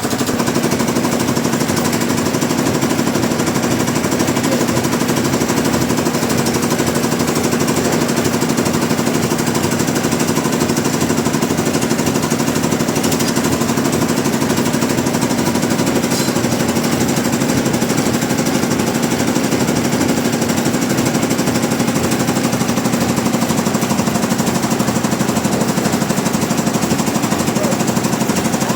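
Sawmill machinery running steadily, with a constant hum under a fast, even rattle.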